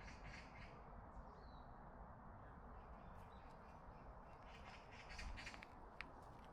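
Quiet forest ambience: a short bird call about a second and a half in, with faint crackling steps on the path at the start and again near the end.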